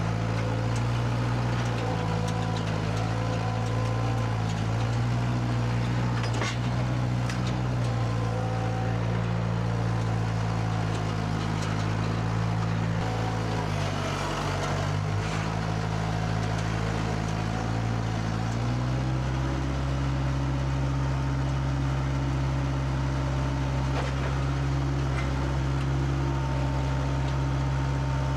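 Heavy vehicle engine running steadily, its speed changing about halfway through and settling at a new pitch a little later.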